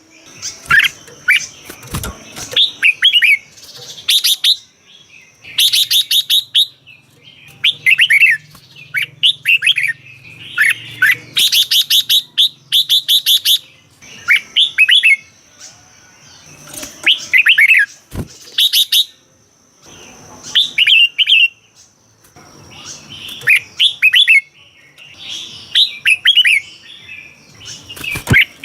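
Red-whiskered bulbul singing: short, quick whistled phrases repeated every second or two, mixed with a few harsher, rattling bursts.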